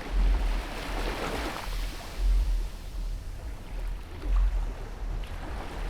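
Wind rumbling in gusts on the microphone over a steady wash of outdoor noise.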